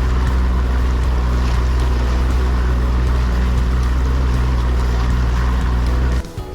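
Bass boat's outboard motor running steadily at speed, a low even drone with rushing wind and water over it; it cuts off abruptly near the end.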